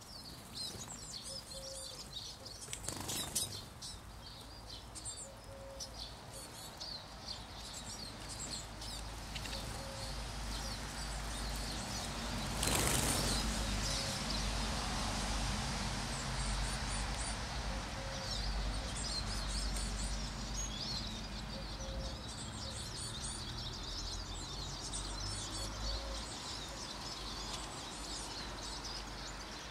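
Wing flaps of small birds flying to and from a bird feeder, loudest in two short flurries about three seconds in and around thirteen seconds in, over constant high-pitched twittering of small finches, mostly siskins.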